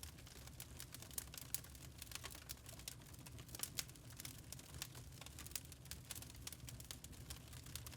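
Wood fire in a fireplace crackling: quiet, irregular small pops and snaps several times a second over a low steady rumble of the burning.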